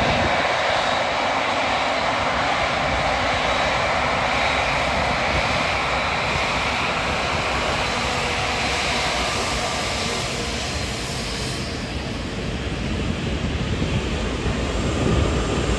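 Four-engined Airbus A380 jet airliner taking off, its engines at takeoff thrust making a loud, steady roar that eases slightly past the middle.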